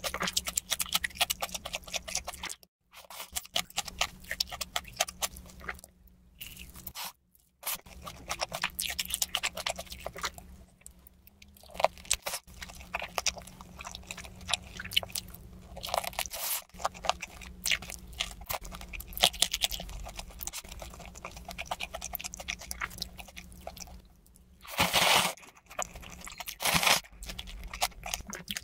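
Close-miked crunching and chewing of crispy sauced fried chicken, a dense run of crisp bites and mouth clicks broken by several brief drops to silence. Two louder rushes of sound come near the end.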